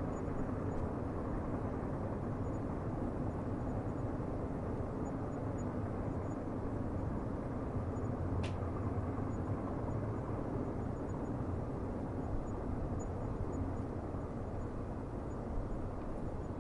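Steady low rumble of a train running on the rails, with one sharp click about halfway through.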